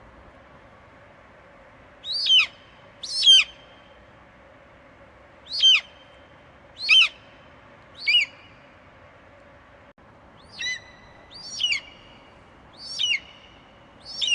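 Eagle screeching: nine short, sharp calls at uneven intervals, each falling steeply in pitch, over a faint steady hiss.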